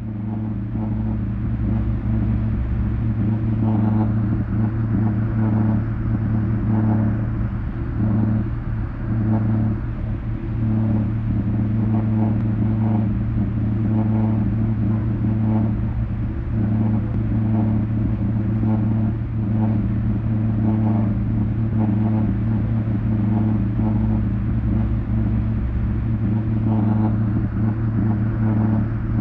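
Low, steady drone from an audio loop taken from a vinyl record and played through a subwoofer, with a soft, uneven pulsing above the hum.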